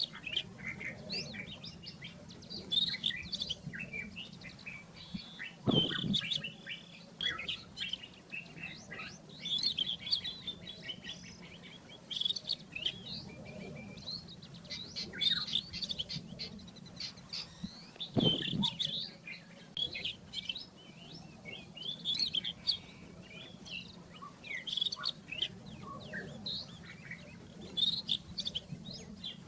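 Rufous-tailed scrub robin singing a continuous song of quick, varied chirps and whistles over a faint low hum, broken by two dull low thumps about six and eighteen seconds in.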